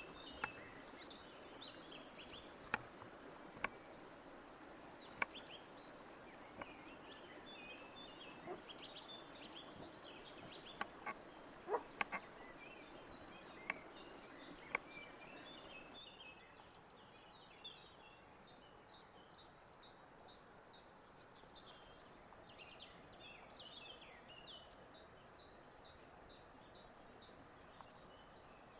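Small birds chirping over and over in short, high calls, over a faint steady background noise. Scattered sharp clicks and taps fall through the first half, then stop.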